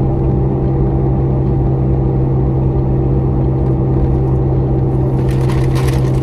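Steady low drone of a car's engine heard inside the cabin. Near the end come quick rustling crackles of something being handled.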